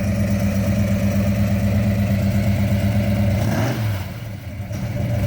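1968 Dodge Charger R/T's big-block V8 running at a steady idle. About three and a half seconds in, the note shifts briefly and drops in level, then settles back to a steady idle.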